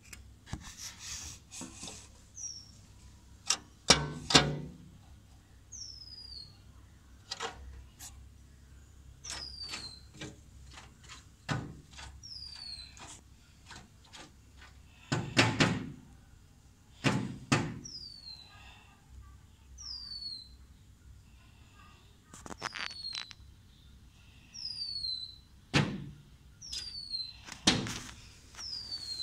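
A woodpecker striking glass: scattered sharp knocks, single or in quick pairs, at irregular intervals rather than a steady drumming roll. Between them a bird repeats a short high call that falls in pitch, every second or two.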